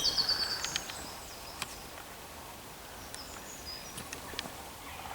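Woodland birdsong: a short high trill at the start, then scattered faint high chirps from small songbirds, with a few isolated sharp ticks.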